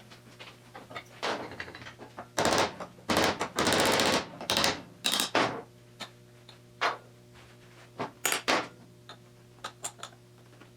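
Irregular clicks, knocks and short scraping and rustling noises of hand work with tools on a car seat, busiest in the first half, over a faint steady hum.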